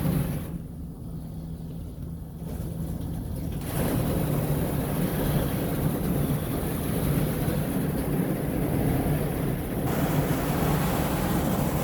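Water spraying and hissing out of a split, taped supply pipe in the car wash equipment, a leak that robs the wash of water pressure, over a steady low hum. The spray grows louder about four seconds in.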